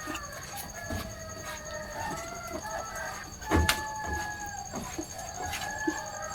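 Chickens clucking with a rooster crowing, several birds calling over one another, with scattered sharp knocks, the loudest a little past halfway.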